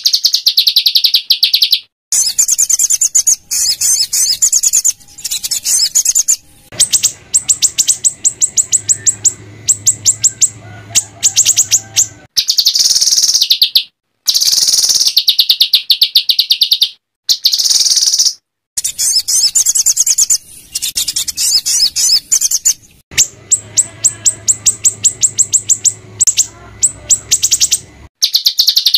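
Recorded song of a small songbird: harsh, rapid-fire volleys of high notes, each phrase lasting a few seconds. The phrases start and stop abruptly with short silences between them, as in an edited tutor track. This is the 'rough shot' song type used to train white-rumped shamas.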